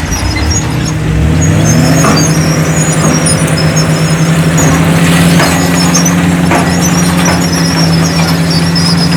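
Heavy diesel earthmoving machinery: an engine revs up about a second in and then runs steadily under load. High metallic squeaks and a few sharp clanks sound over it.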